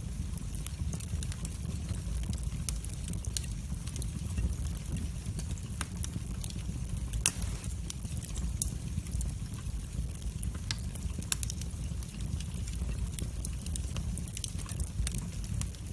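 Wood fire burning in a fireplace: a steady low rumble of flames with many sharp crackles and pops scattered throughout, one louder pop about seven seconds in.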